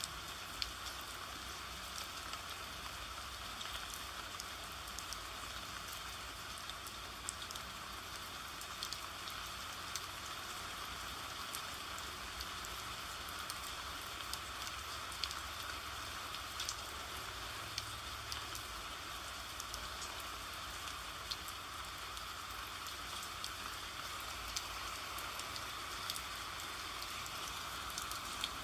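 Steady rain, with scattered sharp ticks of individual drops striking a surface.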